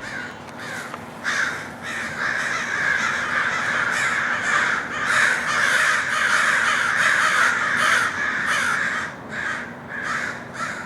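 A flock of birds calling at once, a dense, harsh, rapid chatter that builds about a second in and breaks up into separate calls near the end.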